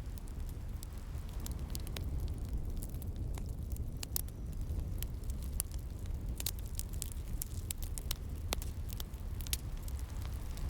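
Wood fire crackling, with frequent sharp pops scattered irregularly, over a steady low rumble of ocean waves.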